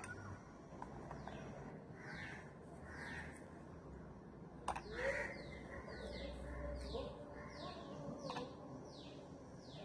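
Birds calling in the background: short falling chirps, a few at first, then a steady run of about two a second through the second half. There is one sharp click about halfway through.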